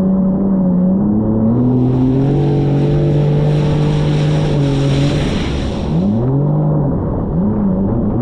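Jet ski engine running under way, its pitch stepping up and holding, with a rushing hiss over it for a few seconds in the middle. Near the end the engine note dips and rises several times as the throttle changes.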